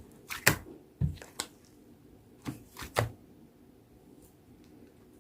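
Slime being squished and pressed by hand, giving about seven sharp clicks and pops over the first three seconds.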